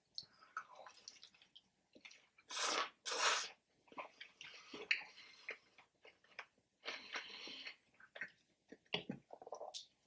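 A person biting and chewing a fried chicken wing, in short irregular bursts of mouth noise; the two loudest come close together about two and a half and three seconds in.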